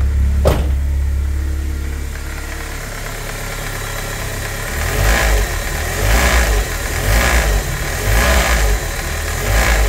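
BMW M42B18 four-cylinder engine running at low revs, heard at the front of the engine, with a sharp click just after the start and, from about halfway in, a rattle that comes in bursts about once a second. The rattle is the timing chain slapping its guide rails, because the aged hydraulic chain tensioner no longer holds the chain tight.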